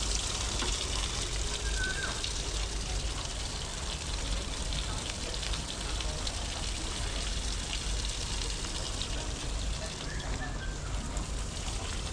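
Steady running, trickling water, with faint voices in the background.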